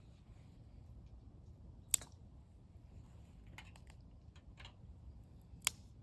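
Wood fire in a small fire pit crackling softly, with two sharp pops, one about two seconds in and one near the end.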